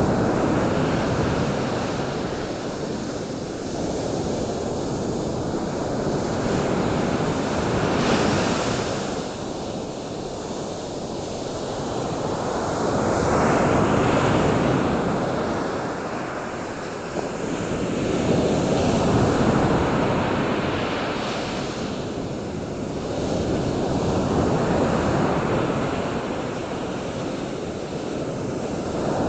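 Continuous rushing noise, like surf, swelling and fading in slow surges about every six seconds.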